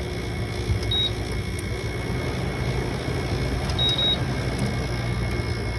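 Window air conditioner running with a steady low hum, its control panel beeping twice: a short beep about a second in and a longer one near four seconds.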